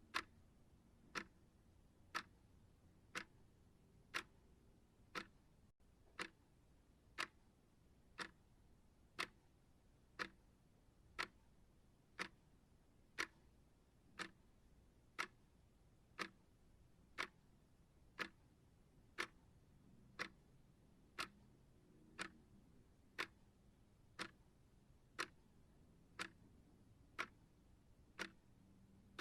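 Clock ticking steadily, one sharp tick a second, as the running sound of a countdown timer.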